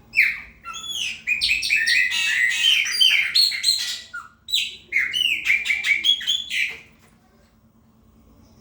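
Chopi blackbird singing two rapid phrases of clear, downward-sweeping notes, the first about four seconds long, the second about two seconds.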